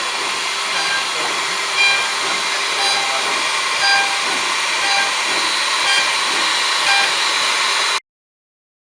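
An automatic horizontal hinge-drilling machine running: a steady hiss with short, pitched whine-like tones about once a second. It cuts off suddenly near the end.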